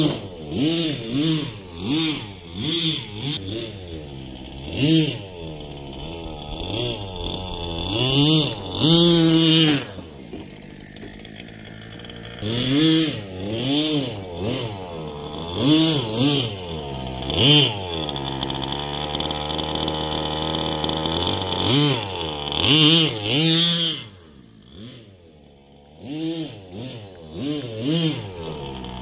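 Small 3.5cc (.21) HSP PT21-P3 nitro engine of a 1/8 RC monster truck revving up and down in repeated throttle blips, each pitch rising then falling. A steadier, higher run lasts a few seconds around the middle, and the engine drops quieter for a couple of seconds near the end.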